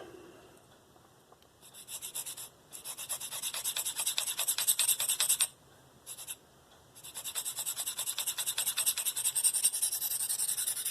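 Spyderco Paramilitary 2 S30V blade being stroked quickly and rhythmically across a DMT Diafold fine 25-micron diamond plate, a rasping scrape of steel on diamond. The strokes come in two main runs, the first starting about two seconds in and the second after a short pause past halfway. This is the edge being worked at a spot the burr had not yet reached.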